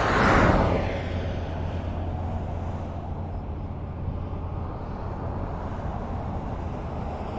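Highway traffic: a vehicle passes close about half a second in, its tyre and engine noise swelling and fading, then a steady low rumble of road traffic carries on.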